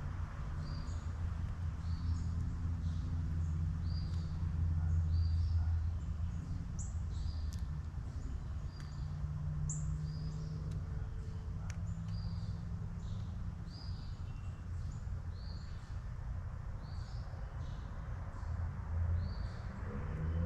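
A songbird repeating a short, high chip note about once a second, with a few brief higher notes, over a steady low rumble.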